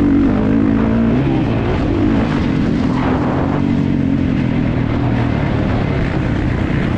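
Kawasaki KX450's single-cylinder four-stroke engine running hard under race load. Its pitch rises and falls over the first second as the throttle is worked, then holds steadier.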